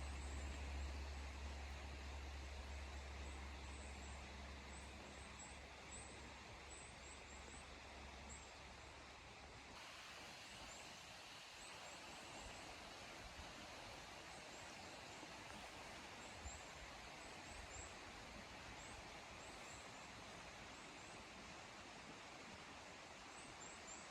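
Faint, steady rushing of a mountain stream. A low hum drops out about ten seconds in, and small, high chirps come and go.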